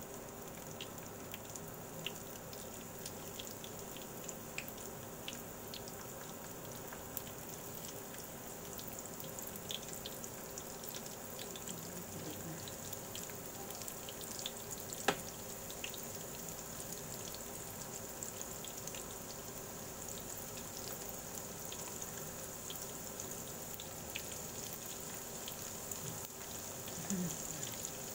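Battered chicken strips frying in hot oil in a pan: a steady sizzle with scattered crackles and pops, and one sharper click about halfway through.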